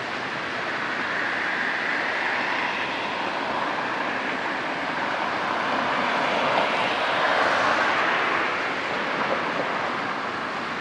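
Salvage tug Hayashio Maru passing by: a steady rushing noise that swells over several seconds, peaks about seven seconds in, and then fades.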